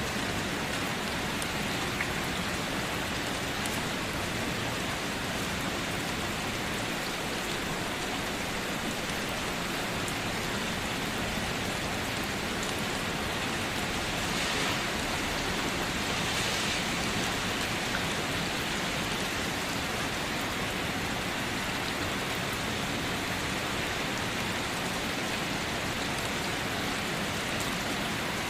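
Steady rain falling, an even hiss with faint drop ticks, swelling slightly about halfway through.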